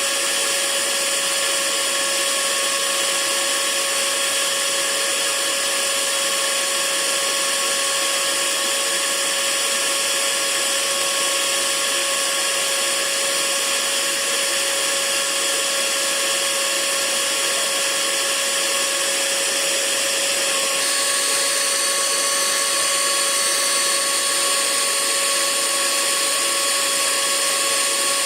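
Hair dryer running steadily: an even rush of air with a steady motor whine, its tone shifting slightly about 21 seconds in.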